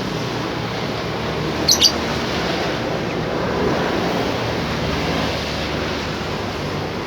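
A pet bird gives a short two-note chirp about two seconds in, over a steady rushing background noise.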